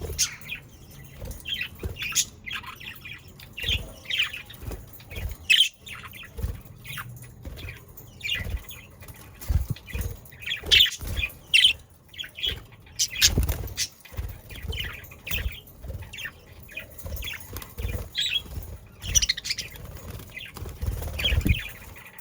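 A flock of budgerigars chirping and warbling, many short overlapping chirps throughout, with wing flutters and low thumps mixed in.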